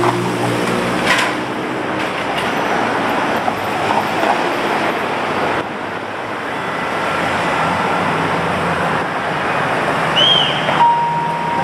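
Steady street traffic noise, the continuous wash of passing vehicles, with a low engine hum in the first couple of seconds and a short steady beep near the end.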